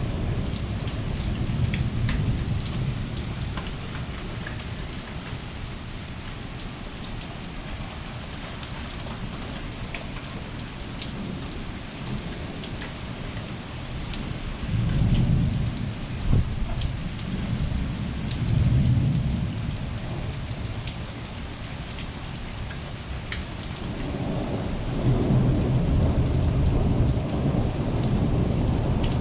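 Heavy rain falling steadily, with drops ticking close by. Thunder rumbles twice about halfway through, with a sharp crack between the rumbles, and the rain grows louder again near the end.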